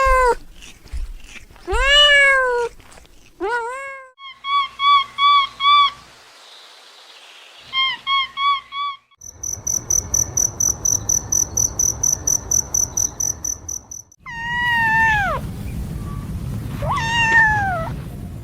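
Cats meowing in drawn-out rising-and-falling calls, with groups of short quick chirps in between. About nine seconds in comes a rapid high-pitched trill over a rustling background, lasting about five seconds, before more falling meows.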